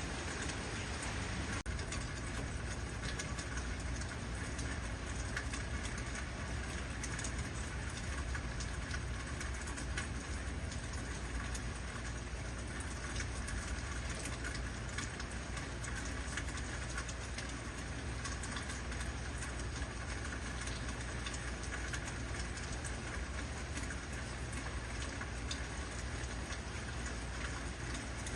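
Heavy rain falling steadily: a dense patter of drops over a continuous hiss, with a steady low rumble underneath.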